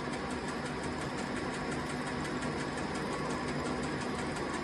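Metal lathe running steadily: an even motor and gear hum with a fast, faint ticking.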